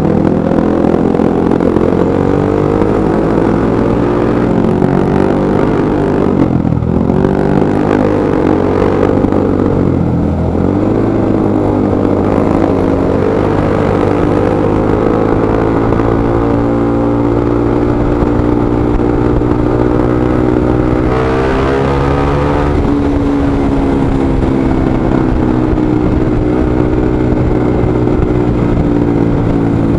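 Motorcycle engine running continuously, its revs climbing and easing off over and over, with several sharp drops in pitch and a climb to higher revs a little after the middle.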